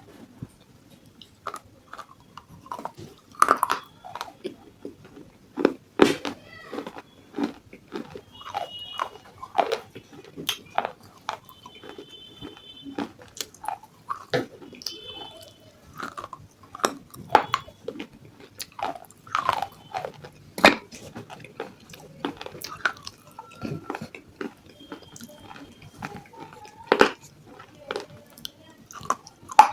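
A person biting and chewing pieces of baked clay pot close to the microphone: irregular sharp crunches with chewing between them.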